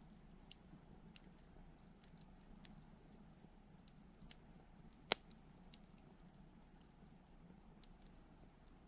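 Wood campfire crackling: scattered faint crackles and ticks, with one sharp, louder pop about five seconds in.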